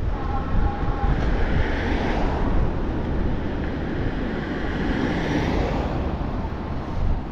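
Wind rumbling steadily on the microphone of a moving bike, with the rushing noise of a passing vehicle swelling through the middle and fading away.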